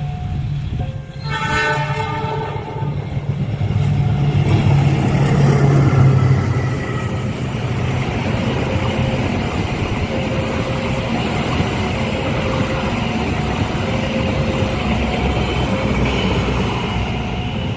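Indonesian diesel locomotive sounding its horn in short blasts, then rumbling past, loudest about five seconds in, followed by the steady rush of its passenger carriages running over the track.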